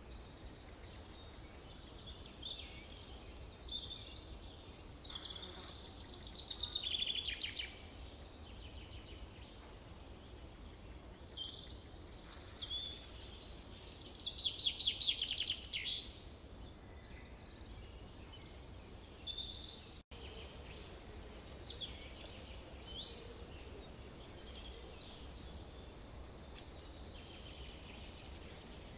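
Forest birds singing and calling: many short chirps and whistles, with two louder rapid trilled songs, one about six seconds in and one around fifteen seconds, over a faint low rumble. The sound drops out for an instant about twenty seconds in.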